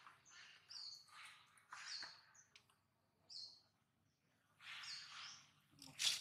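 Birds chirping faintly in short, repeated high calls, with a louder scratchy burst near the end.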